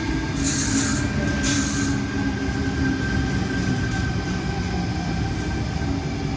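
Tangara suburban electric train pulling into the platform, its running noise steady under a thin high whine. Two short, loud bursts of air hiss come about half a second and a second and a half in.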